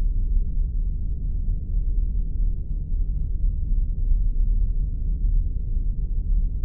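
Spaceship ambience sound effect: a steady deep drone, with faint ticks scattered above it.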